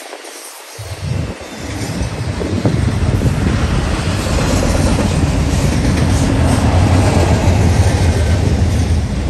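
Double-stack intermodal well cars rolling past: steady rumble of steel wheels on the rails. It dips briefly at the start, then builds and stays loud.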